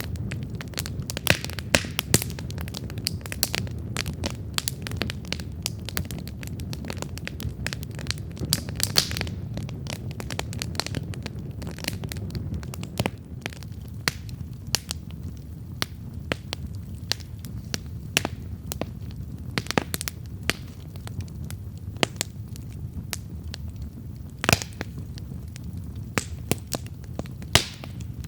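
Wood campfire burning and crackling: irregular sharp pops and snaps over a steady low rumble of flames.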